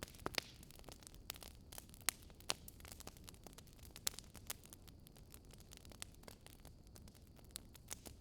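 Wood fire crackling steadily over a low rumble, with irregular sharp pops, a few of them louder.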